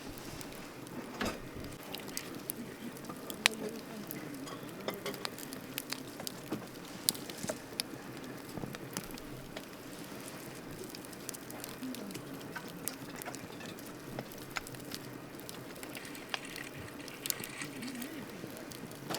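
Wood campfire crackling, with irregular sharp pops over a steady low hiss and rustle; the loudest pops come about three and a half seconds in and again around seven seconds.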